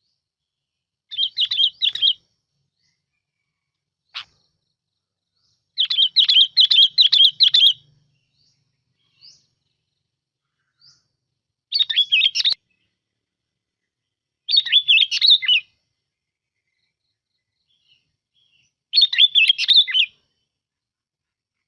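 Bulbul song: five short phrases of quick warbled notes, each about a second long, with pauses of a few seconds between them, and a faint single note after the first phrase.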